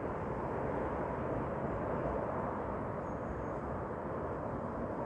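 Steady rushing noise of a forest field recording, even and unbroken, with no distinct events.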